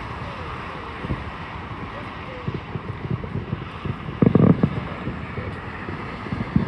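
Background chatter of people talking under steady wind noise on the microphone, with a short, louder burst about four seconds in.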